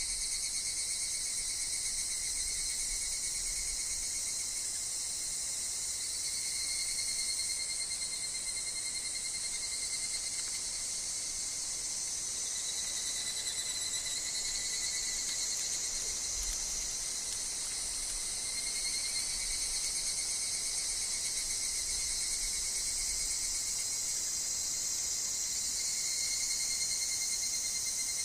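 Steady chorus of calling insects, higurashi (evening cicadas) among them: a continuous shrill, high hiss over pulsing, ringing tones.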